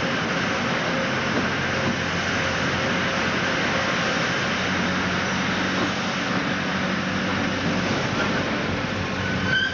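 Miniature park train running along its track: a steady rumble with a faint low hum.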